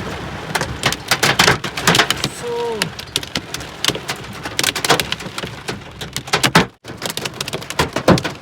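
Hailstones and rain pelting down, a dense, irregular patter of sharp taps and clicks over a steady hiss of rain.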